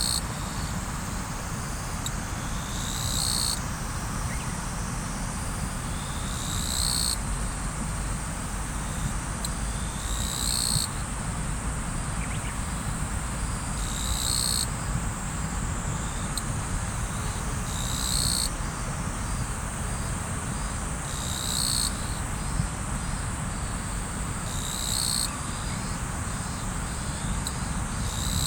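River water flowing steadily. Over it an insect calls high and continuously, its call swelling in a rising phrase about every three and a half seconds.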